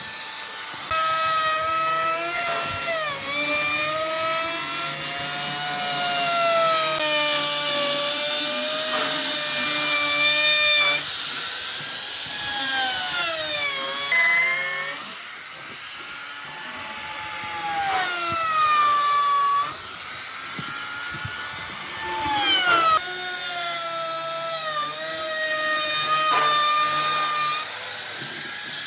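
Electric power tool motor running, its whine repeatedly dipping and rising in pitch as it is worked into the wood.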